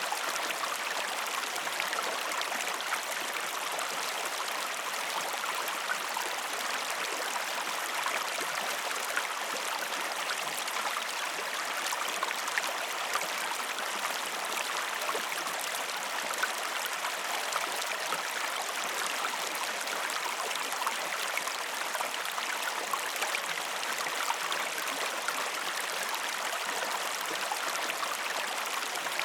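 River water flowing steadily, an even rush with fine splashy flecks running through it.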